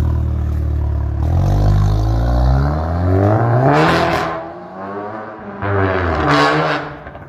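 Volkswagen Golf Mk8 GTI's turbocharged 2.0-litre four-cylinder revving hard: the engine note climbs steadily for about three seconds to a peak and falls away, then rises sharply a second time and drops off near the end.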